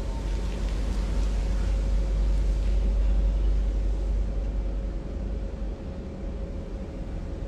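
Steady low rumble with an even hiss of room noise, swelling a little over the first few seconds and easing near the end.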